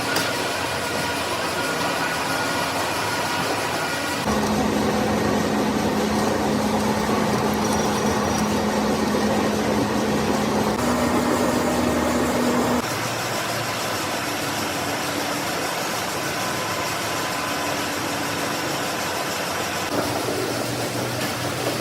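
Machine-shop machinery running steadily with a constant hum. The sound changes abruptly about 4 seconds in, grows louder with a stronger hum, and drops back near the middle.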